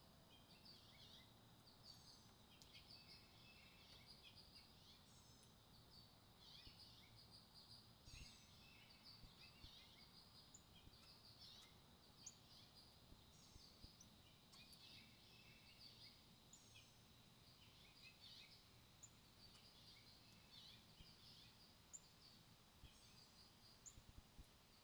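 Faint wild songbirds chirping: many short, high notes and brief trills, some overlapping, over a low background rumble.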